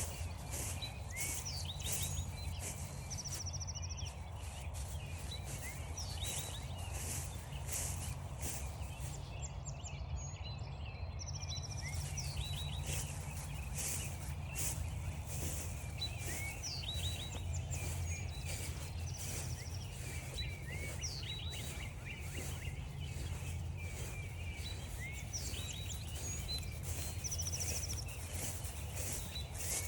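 Footsteps crunching through frost-stiffened grass at a walking pace, with several songbirds calling and singing, including a short high trill that comes back about every eight seconds. A steady low rumble runs underneath.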